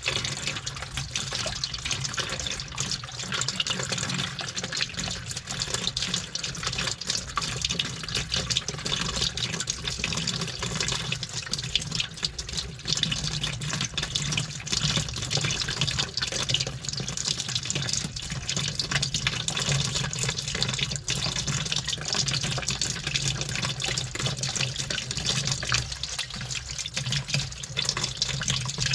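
Washing machine running a wash cycle heard from inside the drum: water sloshing and splashing continuously, with frequent irregular clicks as the keys in the load knock against the drum, over a steady low hum.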